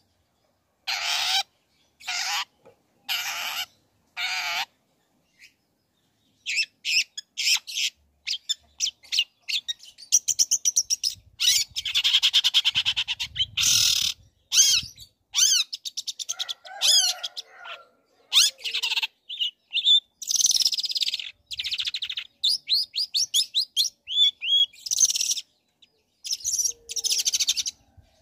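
Long-tailed shrike singing: about five short, harsh calls evenly spaced, a short pause, then a fast, varied chattering song full of trills and quick whistled sweeps.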